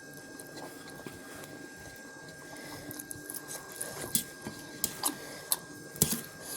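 Close-up eating sounds of spicy instant noodles being chewed: a scatter of short wet smacks and clicks from the mouth, more frequent in the second half. A faint steady high whine runs underneath.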